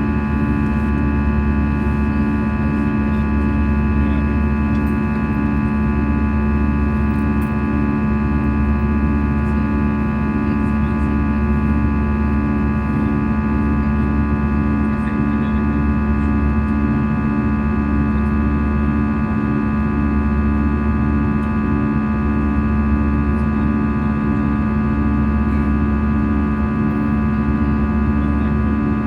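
Steady in-cabin drone of an Airbus A320 in flight: jet engine and airflow noise with several constant tones, and one low tone that pulses on and off evenly.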